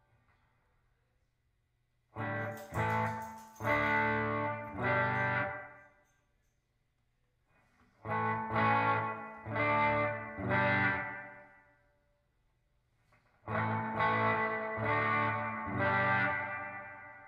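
Electric guitar (PRS SE Custom 24) played through a When the Sun Explodes reverb pedal into a clean valve amp and a 2x12 cabinet with Vintage 30 speakers. It plays three phrases of about four struck chords each, and each phrase rings out and fades before the next.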